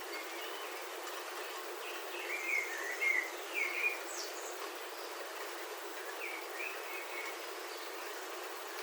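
Steady patter of rain on a roof heard from inside, with birds chirping outside: a cluster of short chirps from about two to four seconds in, the loudest part, and a few more near the seven-second mark.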